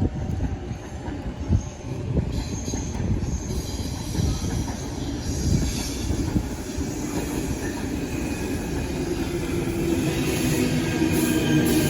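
Passenger train running through the station: wheels rumbling and knocking over rail joints and points, with thin squeals from the wheels against the rails. It grows steadily louder toward the end.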